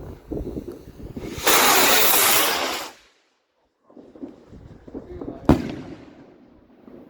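Funke Alpha firework rocket launching with a loud hiss lasting about a second and a half, then a single sharp bang as it bursts a few seconds later.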